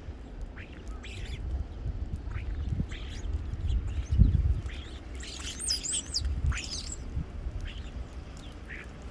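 Small birds chirping in short, scattered calls, with one louder warbling call about five and a half seconds in. Low rumbling thumps underneath, the strongest about four seconds in.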